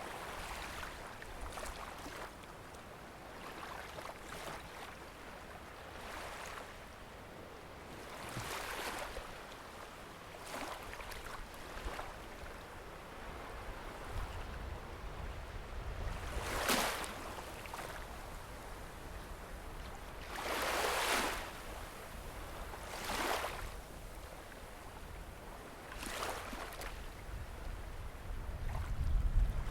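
Small waves washing up and breaking on a sandy beach, one soft rush of water every few seconds, the strongest in the second half. Low wind rumble on the microphone from about halfway through.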